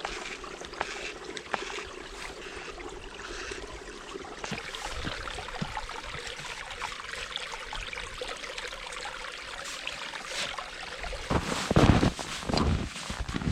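Small forest creek running with a steady trickling rush of water. Near the end, a few louder crunching knocks cut in briefly.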